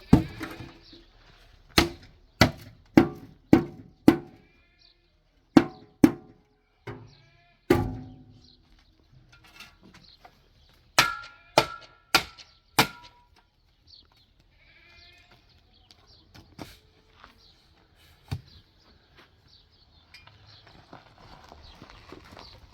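Runs of sharp, ringing knocks, struck about half a second to a second apart, with bleating livestock calling faintly between the blows.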